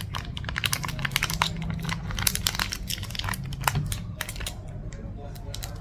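Plastic snack-bar wrapper crinkling as it is handled and opened: dense, irregular crackles that thin out after about four seconds.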